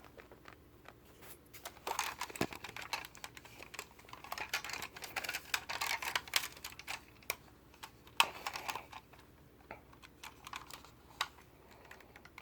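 Fingers and nails clicking and scraping on a toy Porsche 911 while prying at a stiff door, in irregular bouts of small sharp clicks.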